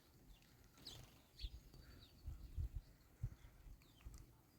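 Quiet background with a few faint, short, high bird chirps and some soft low thumps.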